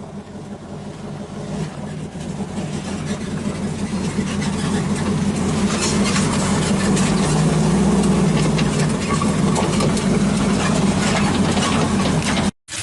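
383 stroker V8 of a 1937 Chevy truck idling steadily, growing louder over the first few seconds and then holding; the sound cuts out briefly near the end.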